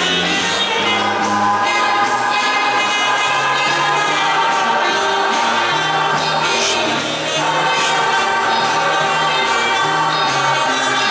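A choir singing a Polish Christmas carol (kolęda) with instrumental accompaniment: long held notes over a bass line that moves in steps.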